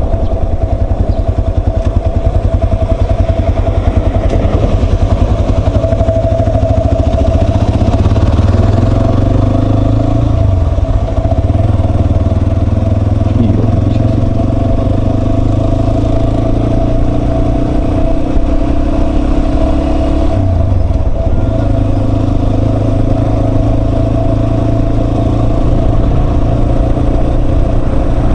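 Yamaha Serow 250's air-cooled single-cylinder engine running under way, its note steady with two brief dips and changes in pitch, about a third and two-thirds of the way through, as from gear changes.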